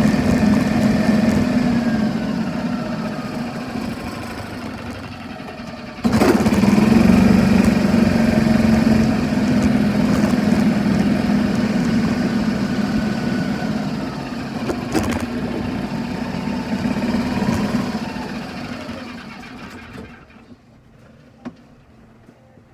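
Golf cart running, a steady drone. It comes in abruptly louder about six seconds in, then fades away to quiet near the end.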